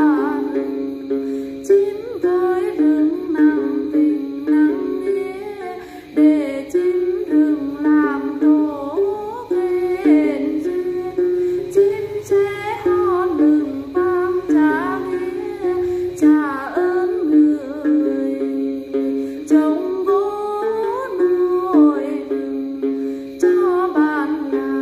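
Đàn tính, the long-necked gourd lute of Then singing, plucked in a quick, continuous stepwise melody.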